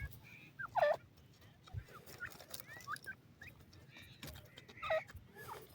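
Francolin (teetar) giving short, sharp alarm calls, a scattered series of quick falling and curving notes, the loudest about a second in and again near the end.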